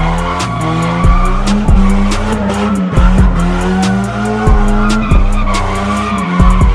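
Car tyres squealing as a car spins its wheels, over loud music with a heavy bass line and a steady beat of about one hit every 0.6 seconds.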